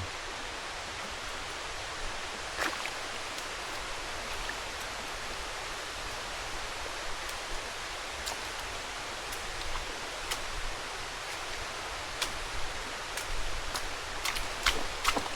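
Steady rush of flowing water in a rainforest river, with a few short sharp clicks and rustles over it, more of them near the end.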